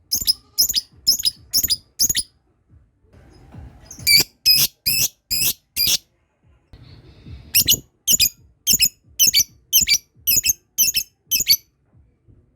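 A lovebird's 'ngekek' call: a run of shrill, harsh chirps, about three a second. It comes in three runs broken by short pauses, and the last is the longest, about four seconds.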